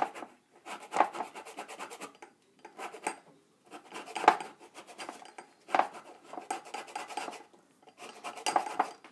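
Orange peel being grated on a small handheld zester, metal rasping against the rind in repeated strokes that come in short groups with brief pauses as the orange is turned.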